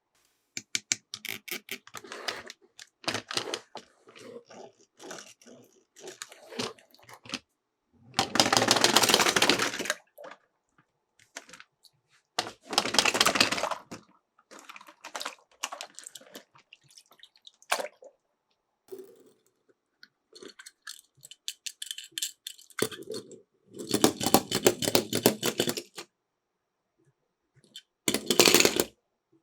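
Small die-cast toy cars clicking and clattering as they are handled and set down, and rolling down a slope in several rattling runs that each last a second or two.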